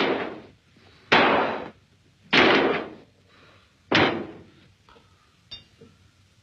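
Three loud crashes, spaced about a second and a half apart, each hitting sharply and dying away within about half a second.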